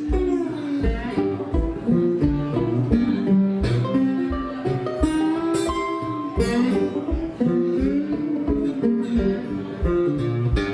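Instrumental break of a bluegrass-style song: plucked acoustic guitar picking a melody over a steady low beat about twice a second.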